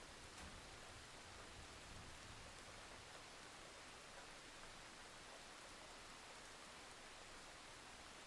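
Faint, steady rainfall, an even hiss with no drops or thunder standing out.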